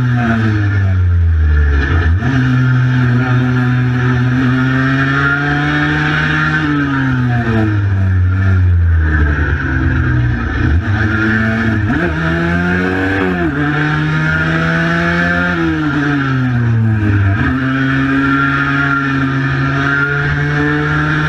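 Cagiva Mito 125's single-cylinder two-stroke engine running hard on the road, its pitch sliding down as the throttle is rolled off and jumping back up sharply several times as it pulls again.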